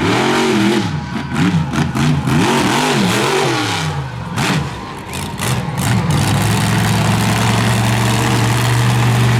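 Monster truck's big-block engine revving, its pitch swinging rapidly up and down for about four seconds, then running at a steady pitch from about six seconds in.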